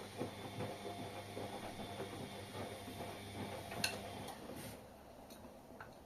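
Washing machine running: a steady motor hum with small clicks and rattles. The hum stops about four seconds in, just after a sharp click, leaving only faint scattered ticks.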